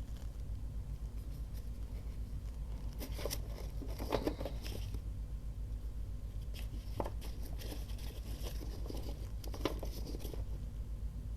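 Paper being handled during crafting: light rustling and crinkling with a few sharper clicks, densest a few seconds in, over a steady low hum.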